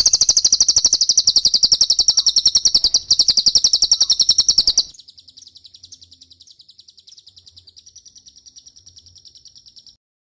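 Recorded song of a cililin bird: a rapid, high, evenly pulsed trill. It is loud for about five seconds, then goes on much quieter and stops shortly before the end.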